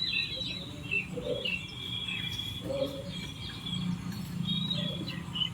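Small birds chirping and tweeting in quick, short high calls, some of them falling in pitch, over a low steady hum.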